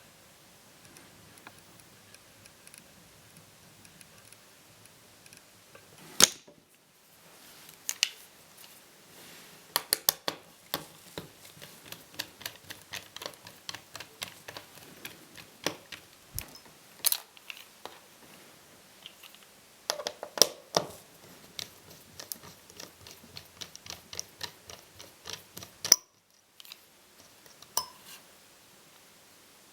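Irregular small clicks and taps of laptop parts being handled during disassembly. Quiet at first, then a busy run of sharp knocks, a few much louder than the rest, with the sound cutting out abruptly twice.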